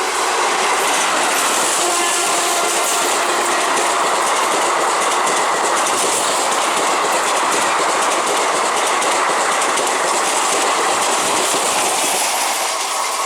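Passenger train running through the station at speed: a continuous loud rush of wheel and rail noise that holds steady and eases slightly near the end.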